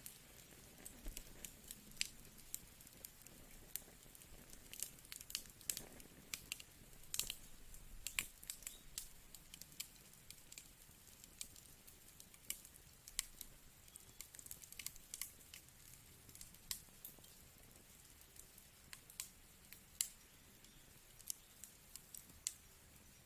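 Wood fire crackling softly: irregular sharp pops and snaps from burning logs over a faint hiss, with a denser cluster of pops between about five and nine seconds in.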